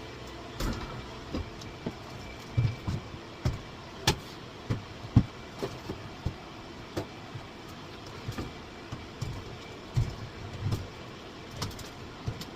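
Irregular knocks, bumps and clunks of hand work tearing out a sailboat's built-in galley fridge, over a steady background hiss.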